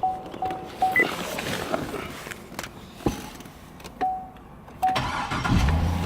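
A car's warning chime pings in short, evenly spaced beeps, then near the end the 2005 Corvette C6's 6.0-litre LS2 V8 cranks, fires and settles into a steady idle.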